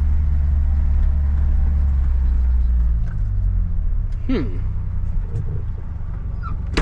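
Big John Deere farm tractor's diesel engine running with a steady low drone in the cab, easing off and dropping in level about halfway through. A short vocal sound comes a second later, and there is a sharp click near the end.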